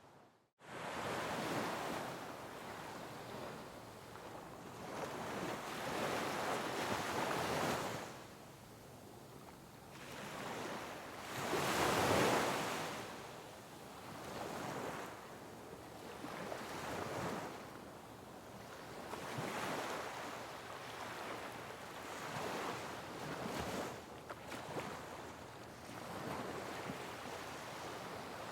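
Sea waves breaking and washing over rocks, each surge rising and falling every few seconds, the biggest about twelve seconds in. The sound drops out briefly right at the start.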